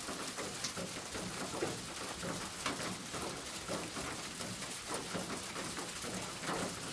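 Rain falling on a roof: a steady patter of many drops.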